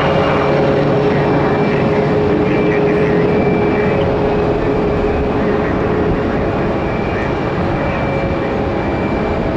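Bombardier CRJ-200's twin GE CF34 turbofans running at take-off power as the jet climbs away, a steady roar with a held whine in it, easing slowly.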